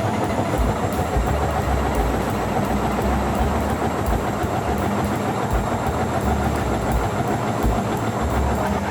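Washing machine running: a steady mechanical hum with irregular low rumbling pulses as the drum turns.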